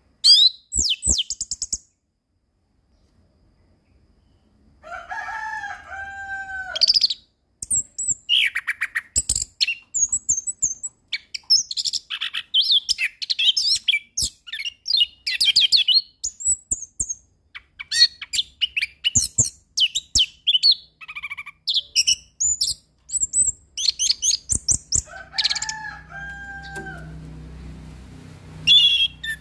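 Orange-headed thrush singing a loud, varied song of rapid high whistled phrases, chattering trills and mimicked notes. Lower two-note whistles come twice, about five seconds in and near the end, and there is a brief silent pause near the start.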